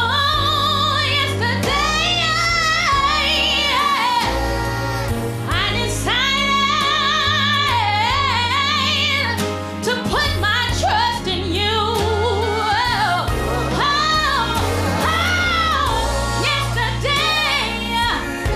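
Gospel song performed live: a lead singer's melismatic runs with wide vibrato over band accompaniment with a steady bass line.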